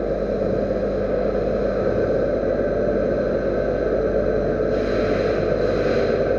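Metal lathe running steadily with a constant hum and several fixed tones. A higher hiss comes in twice briefly near the end.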